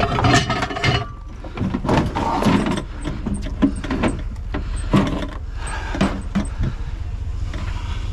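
Irregular knocks and clatter, as of metal appliances being handled and moved, over a steady low rumble.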